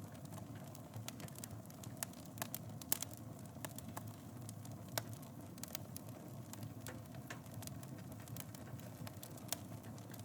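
Wood fire burning in a fireplace: a steady low rumble of flames with irregular crackles and pops, a few sharper pops among them.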